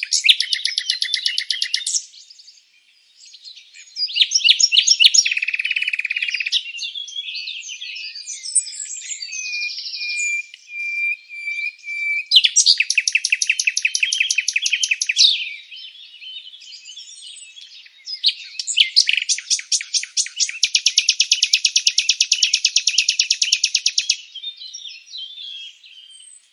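Songbird song: bursts of very fast, high trills and chirps, each phrase lasting about two to five seconds with short pauses between.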